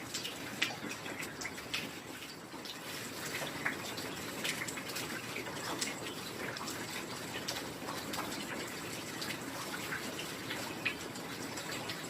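Heavy rain falling steadily, a dense hiss with many separate drops ticking and a few louder drips now and then.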